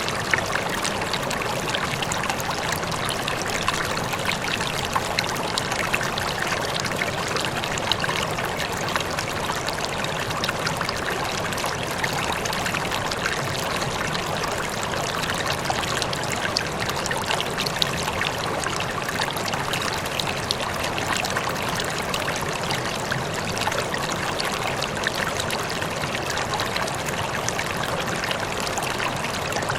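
Flowing water running steadily and evenly, with many small splashes and drips through it.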